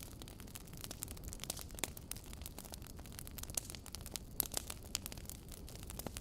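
Wood fire burning in a fireplace, logs crackling and popping with many irregular sharp snaps over a low steady rumble of the flames.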